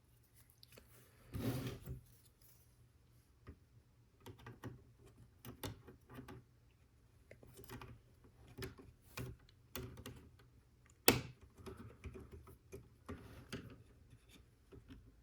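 Plastic Lego Technic pieces being handled and fitted: scattered light clicks and rattles, with a short rustle about a second and a half in and one sharper click about eleven seconds in.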